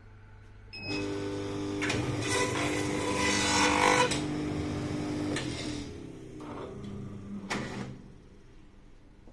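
Semi-automatic perfect binding machine running through its cycle: a motor starts about a second in with a steady whir and a hissing, grinding noise that grows loudest in the middle, then winds down with falling pitch, and a sharp mechanical clack comes near the end before only a low hum remains.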